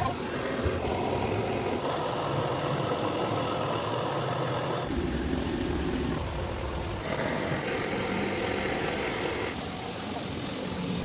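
Steady mechanical machine noise that changes character abruptly several times, about every two to three seconds.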